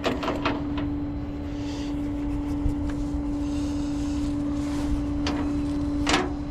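Tow truck engine running steadily at idle, a constant hum, with a few sharp clicks and knocks over it.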